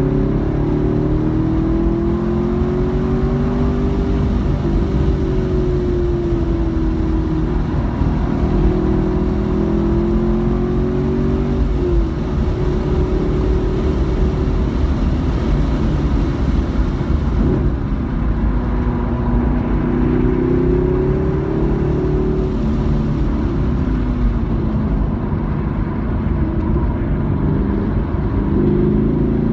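Car engine heard from inside the cabin under hard track driving, revving up through the gears with its pitch climbing and dropping sharply at each upshift, then falling as the car slows for a corner, over steady road and wind noise.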